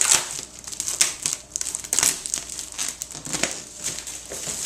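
Cardboard box being opened and handled: a run of irregular crinkling, rustling and scraping.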